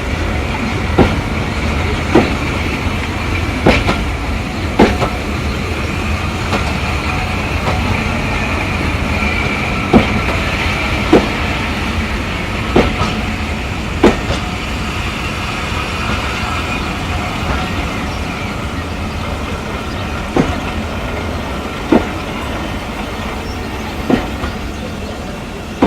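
Train wheels running along jointed track: a steady rumble with sharp clicks about a second apart, mostly in pairs, as the wheels cross rail joints.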